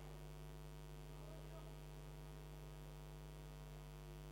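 A faint, steady electrical hum with no other sound.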